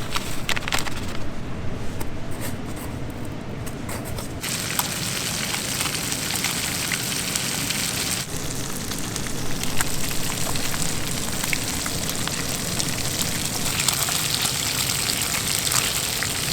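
A steady crackling hiss, changing abruptly about four and a half and eight seconds in.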